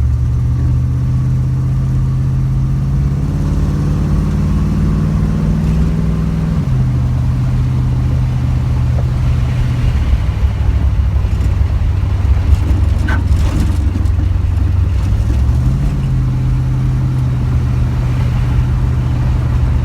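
Car engine running under load: its pitch climbs steadily for several seconds, drops suddenly about six and a half seconds in, holds steady, then steps up again near the end.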